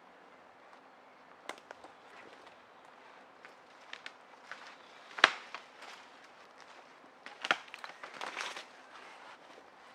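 Scattered sharp cracks, snaps and knocks over a faint hiss, with one loud crack about five seconds in and a quick cluster of them near the end.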